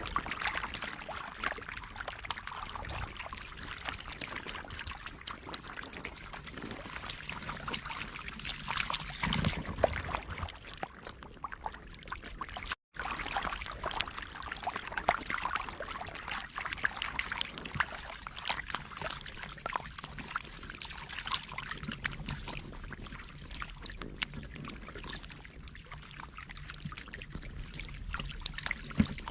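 Shallow water trickling and splashing, with many small sharp splashes throughout; the sound cuts out for an instant about thirteen seconds in.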